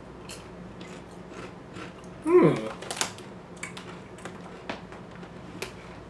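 Someone crunching and chewing a crisp chip: scattered sharp crunches throughout. A short hummed voice sound, dropping in pitch, comes about two and a half seconds in and is the loudest moment.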